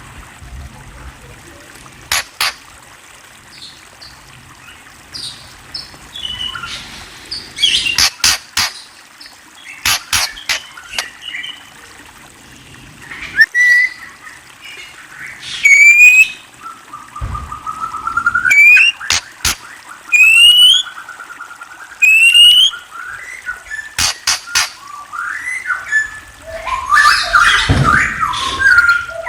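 Birds calling: sharp clicks and short chirps, then a run of quick rising whistled notes, and a dense burst of chattering calls near the end.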